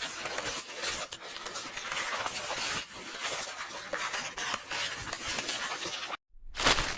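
Continuous crackly rustling of paper, like book pages being turned and handled. It cuts out completely for a split second near the end, then comes back as a louder burst of paper noise.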